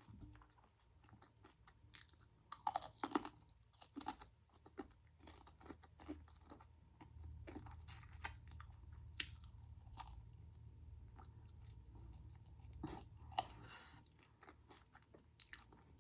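Close-up chewing and crunching of a crispy fried Korean corn dog coating: irregular crackly bites, loudest a few seconds in and again near the end.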